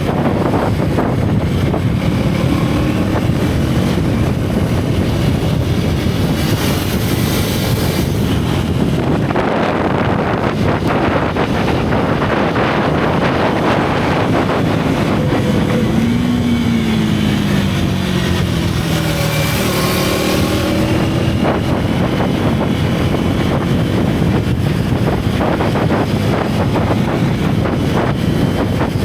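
Single-cylinder motorcycle engine running under heavy wind noise on the microphone. The engine pitch rises and then falls away a couple of times around the middle.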